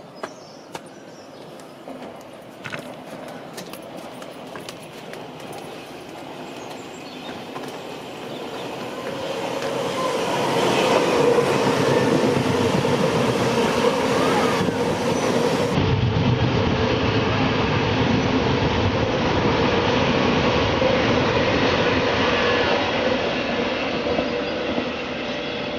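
A train approaches and passes. It grows louder from about eight seconds in and stays loud, with a steady whine over the rumble of the wheels on the rails.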